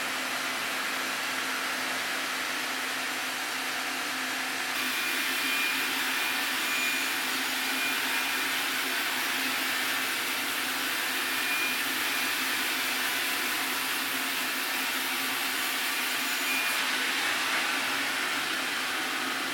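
A sawmill running steadily while milling a Taiwan sweetgum log, with a faint steady hum under an even rushing noise. A higher hiss joins about five seconds in and drops away a couple of seconds before the end.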